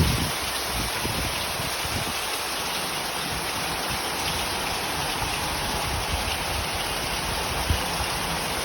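Heavy tropical downpour: dense, steady hiss of rain falling on surfaces, with a few soft low thumps of heavier drops or runoff about a second in and near the end.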